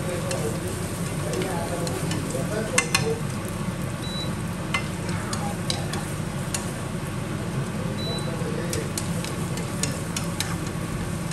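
Minced lemongrass and shallot sizzling in hot oil in a nonstick frying pan, steadily, while being stirred with wooden chopsticks that click against the pan now and then.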